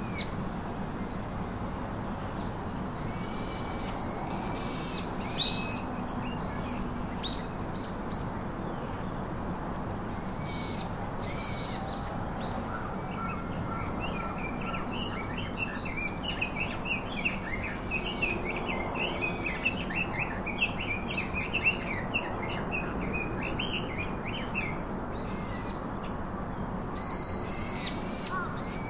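Birds calling: short chirping notes repeated every second or two, thickening into a busy run of chirps in the middle, over a steady low hum. A few sharp clicks stand out in the middle stretch.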